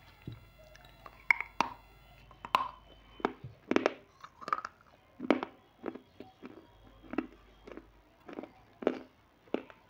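Close-miked chewing of a crunchy snack: a run of crisp, sharp crunches, about one every half second to second.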